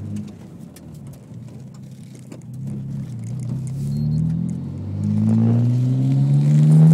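Nissan Skyline R34 GT-R's RB26DETT twin-turbo straight-six accelerating in second gear, the revs rising, easing off briefly just past halfway, then climbing again to their loudest near the end.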